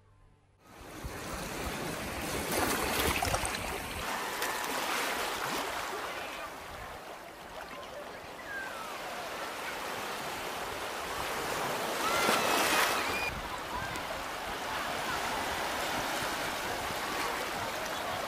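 Small sea waves washing onto a sandy beach, an even, unbroken rush that starts about a second in.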